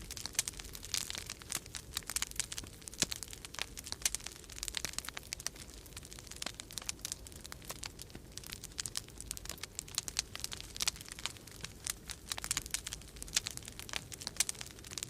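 Wood fire crackling in a fireplace, with a dense, irregular run of sharp pops and snaps, over a low steady rumble of winter storm wind.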